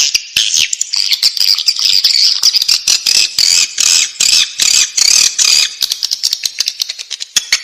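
Swiftlet chicks calling in the nest: a dense, unbroken stream of rapid, high-pitched chirps and clicks.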